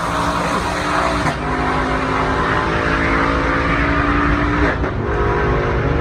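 Twin-turbo 2018 Mustang running at full throttle down a drag strip, a loud steady engine note with turbo and wind noise; the note changes about a second in and again near the end.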